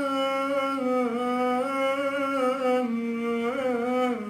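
A man's solo voice singing one long, drawn-out wordless note in an Arabic sung poem. The note shifts slowly between a few pitches and swoops briefly near the end.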